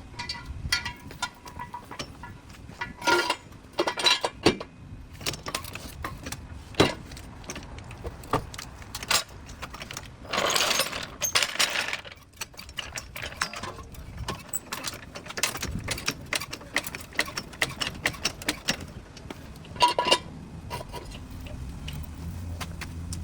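Workshop clatter: irregular metallic clinks and knocks of tools and parts being handled, several ringing briefly, with a louder rushing burst of noise about ten seconds in.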